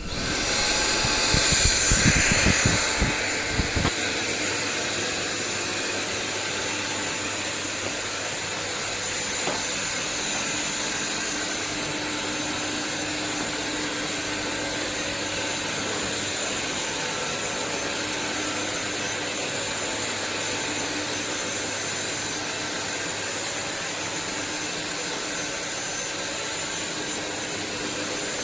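Sulean X8 cordless stick vacuum running: a steady rushing whir with a high motor whine. It comes on at the start, with a few knocks in the first seconds as it is handled, then runs evenly.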